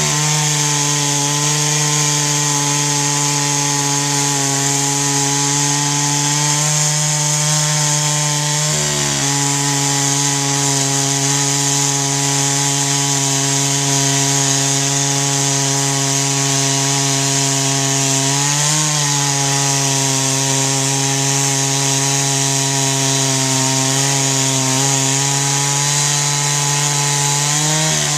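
Two-stroke chainsaw running at full throttle through a long rip cut along a log, guided by a Granberg G55 mini mill. The engine note holds steady under load, sagging briefly about nine seconds in, again around the middle and once more near the end.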